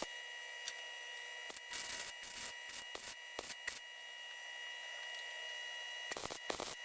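Irregular rubbing and scraping strokes in short clusters, typical of hand abrasive work on a part being restored, over a steady high-pitched whine.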